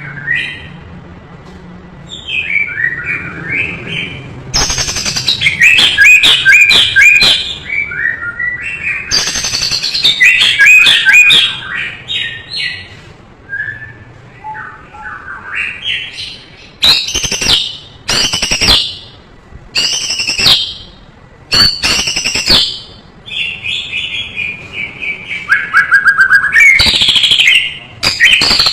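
White-rumped shama (murai batu) singing a long, varied song full of mimicked phrases: whistles sliding up and down, fast descending trills and several loud, harsh chattering notes.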